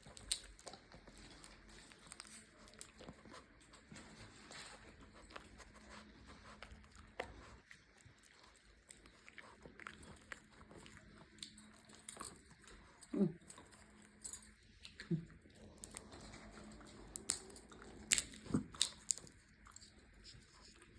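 Shih Tzu puppy chewing peanuts: irregular sharp crunches and clicks, with a few brief low sounds in the second half.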